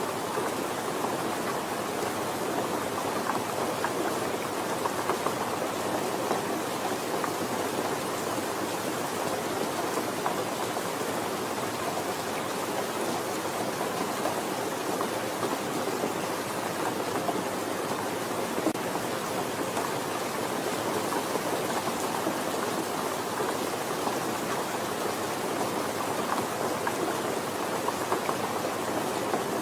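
Steady, gentle rain falling, an even hiss of drops without a break.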